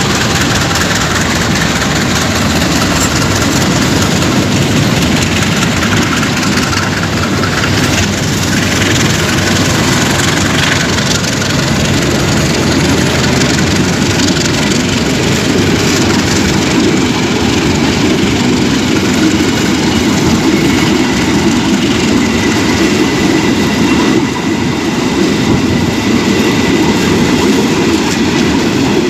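A train running past at close range: a loud, steady rumble of its engine and wheels on the rails.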